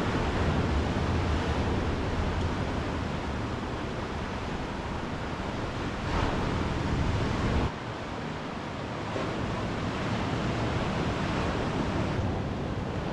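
Ocean surf, a steady rushing wash of waves, with an abrupt drop in level about eight seconds in.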